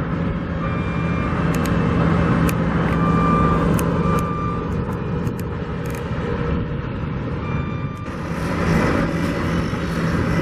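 Steady drone of heavy construction machinery with a constant low engine hum, and a backup alarm beeping intermittently in the first half.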